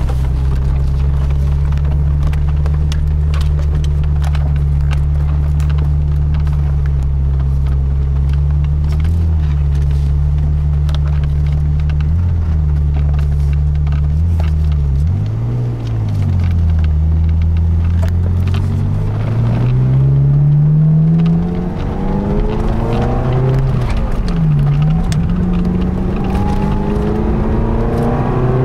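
Ferrari F355's 3.5-litre V8 heard from inside the cabin. It holds a steady low engine speed for about half the time, with a few brief dips, then accelerates, the revs climbing and falling back twice near the end as the gears change.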